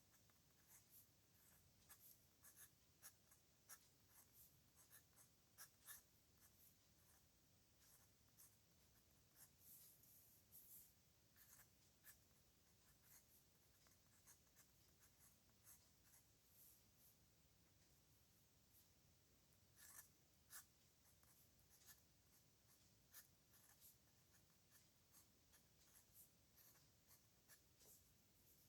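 Pen on paper: faint, irregular scratches and short strokes of a pen writing by hand.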